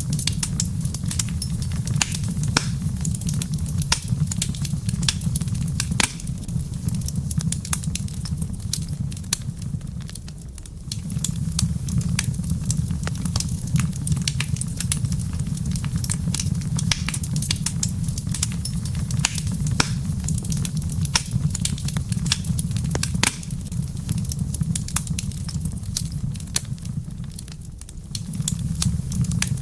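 Wood fire crackling in a fireplace: frequent sharp pops and snaps over a low steady rumble, which eases twice for a few seconds.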